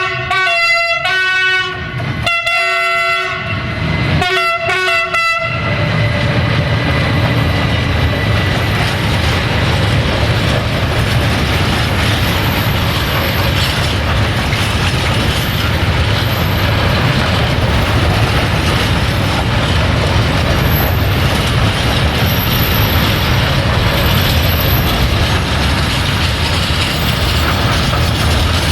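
Electric freight locomotive sounding its multi-tone horn in a series of blasts, the last two short, over the first five seconds. Then the steady rumble and clatter of the freight wagons rolling past.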